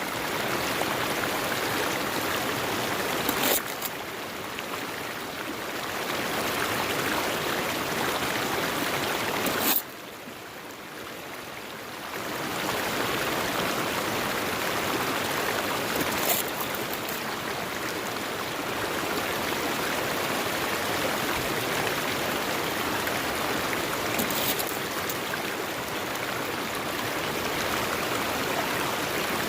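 Steady rush of flowing river water, with a few brief clicks; the rush drops quieter for a couple of seconds about ten seconds in.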